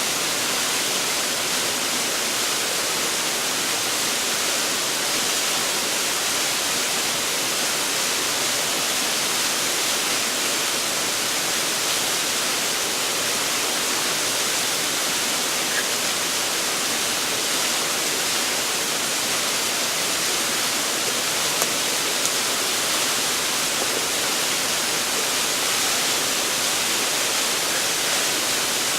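Waterfall rushing steadily: an unbroken, even roar of falling water.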